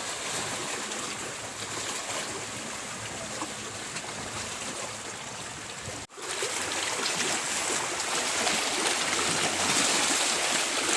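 Steady rush of running water, like a stream or trickle, with no clear events over it; it cuts out for an instant about six seconds in.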